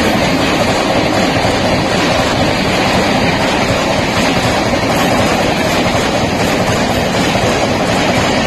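Express train coaches rushing past at speed close by: a loud, steady rumble of wheels on the rails with rushing air.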